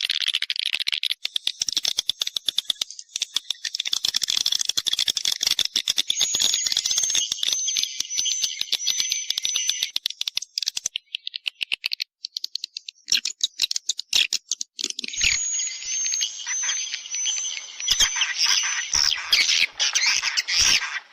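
Edible-nest swiftlets calling: a dense, continuous twittering of high chirps and rapid clicks, with short lulls twice midway.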